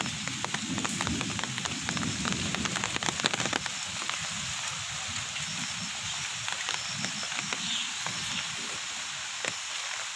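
Rain falling, with many sharp drop ticks over an even hiss. A low rumble fades out over the first few seconds.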